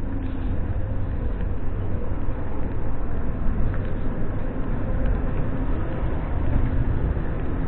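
Ivolga electric train heard from inside the passenger car while running: a steady low rumble with a faint hum.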